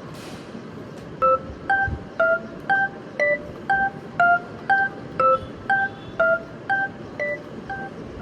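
Telephone keypad tones: about fourteen short two-tone beeps, roughly two a second, at varying pitches, over a steady background rumble.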